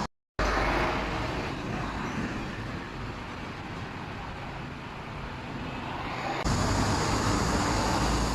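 Steady vehicle and road-traffic noise, a rumble without clear engine tones. It cuts out briefly just after the start, and the level jumps abruptly about six and a half seconds in.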